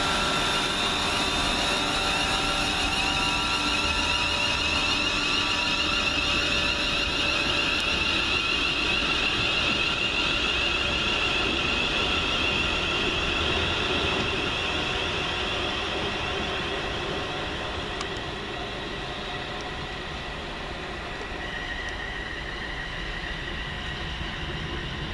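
Class 350 Desiro electric multiple unit at the platform, its traction equipment giving a steady high whine over a low rumble. The sound fades gradually through the second half as the train draws away.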